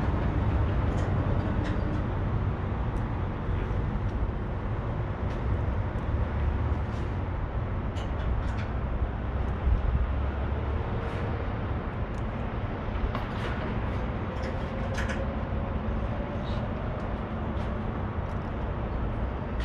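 Steady low rumble of an idling diesel truck engine, with scattered light clicks and rattles.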